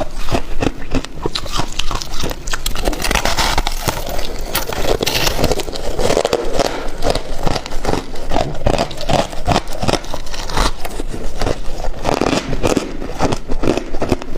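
Ice being bitten and chewed close to the microphone: a dense run of irregular crackling crunches.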